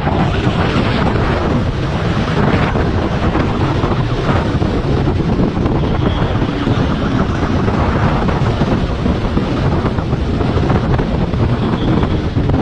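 Loud, steady wind buffeting the microphone at speed, with a vehicle running underneath it.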